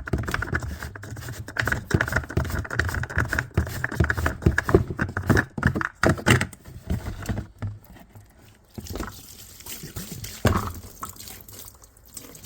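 Dirty gasoline, suspected of holding water, pouring and dripping out of a lawn mower's fuel system, with short knocks and rattles of parts being handled. The flow is busiest for the first seven seconds or so, then thins to occasional drips and clicks.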